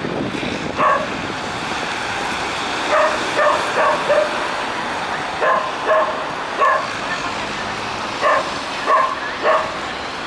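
Stray dogs barking: about ten short barks in loose clusters of two or three, over steady background noise.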